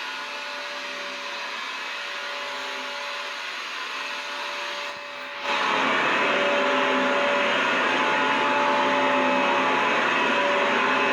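Vacuum cleaner motor running steadily, a dense rushing hiss with a faint steady whine. About five seconds in it dips briefly, then comes back louder and fuller.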